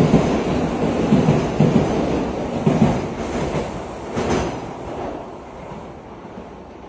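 An N700-series Shinkansen bullet train running past close by, a loud rumble with a regular low thumping from its wheels. About four seconds in there is a brief rush as the end car goes by, then the sound fades as the train moves away down the line.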